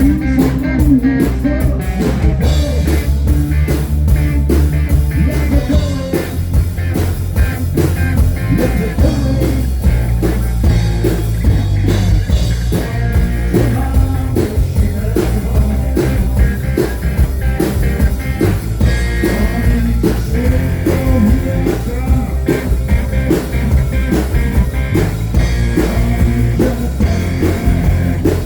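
Live rock band playing with electric guitar, bass and drums at a steady beat, in a blues-rock style.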